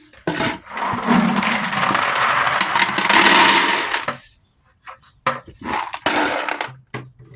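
Small scrap metal pieces poured and tipped into a bucket, a long rattling clatter of about four seconds followed by a few shorter clatters and knocks.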